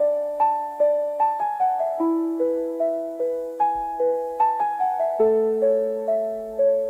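Gentle solo piano playing a slow lullaby melody, single notes over held bass notes, each note struck and fading away.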